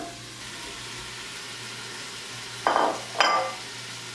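Onion, garlic and celery sizzling steadily in the oil of a pressure-cooker pot, just after diced potatoes have gone in. About three seconds in come two short clatters of kitchenware, the second with a brief ringing note.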